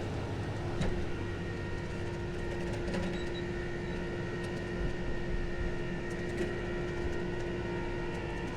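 Flatbed tow truck's hydraulic winch running over the idling engines, a steady whine over a low mechanical hum, as the broken-down pickup is pulled slowly.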